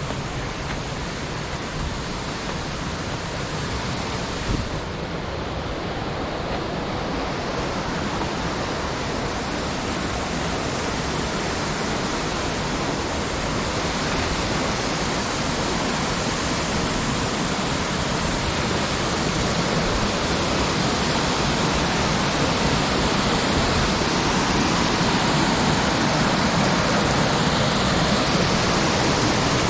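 Mountain stream rushing over rocks and small cascades: a steady, even roar of water that grows gradually louder. A single brief knock sounds about four and a half seconds in.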